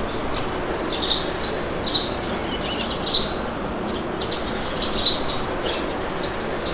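Wind blowing steadily with birds chirping over it: short, high calls repeating about once a second.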